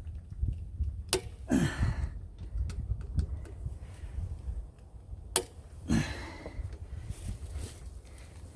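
Small clicks and taps of hand tools and wires at the well pump's pressure switch terminals as the wiring is fastened, with two sharp clicks about a second in and past the five-second mark. Two breaths and a low rumble run underneath.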